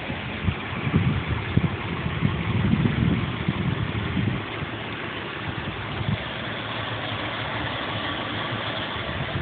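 A 1992 Audi 100's engine idling steadily, with uneven low thumps in the first few seconds.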